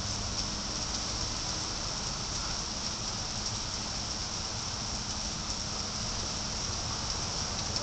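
Steady rain falling and pattering on surfaces during a thunderstorm, an even hiss with no thunder.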